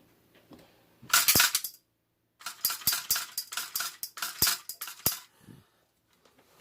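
Sharp metallic clicks and rattling from a hand tool working inside a bathroom exhaust fan housing: a dense clatter about a second in, then a run of separate clicks and scrapes for a few seconds.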